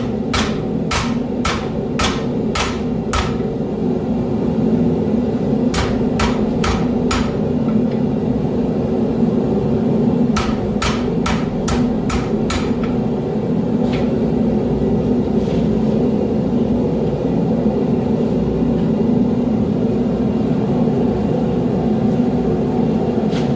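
Hand hammer striking hot steel on an anvil while forging a knife blade, in runs of quick blows about two a second: six at the start, four around six seconds in and six more around eleven seconds, then a couple of faint taps. A steady low drone runs underneath throughout.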